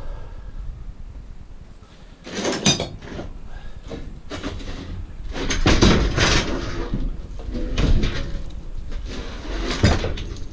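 Pieces of scrap metal clanking and clattering as they are handled and dropped. There are louder clatters about two and a half seconds in, around six and eight seconds, and near the end.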